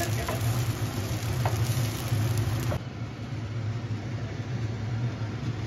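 Shami kababs sizzling in oil on a cast-iron tawa, with a faint metal spatula scrape or two. The sizzle cuts off about three seconds in, and a steady low hum carries on underneath.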